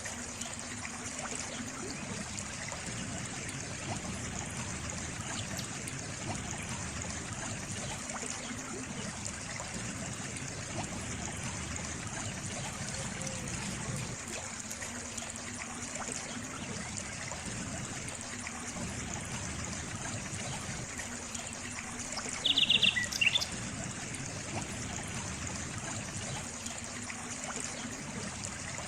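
Water trickling steadily, as from a small stream. About two-thirds of the way through, a brief high chirp stands out above it.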